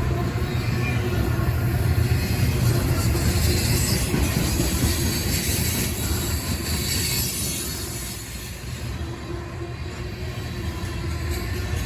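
Freight train rolling past on the main line: a steady, loud rumble and rattle of wheels on rail that eases slightly about eight seconds in, then builds again.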